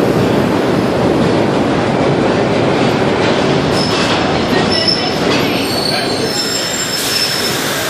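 New York City subway train running into a station and slowing: a loud rumble of wheels on the rails, with short high-pitched wheel and brake squeals coming in from about four seconds in.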